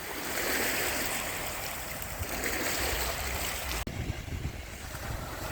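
Ocean waves washing on a beach: a steady hiss of surf with an uneven low rumble underneath. The hiss drops away suddenly a little before four seconds in, leaving mostly the low rumble.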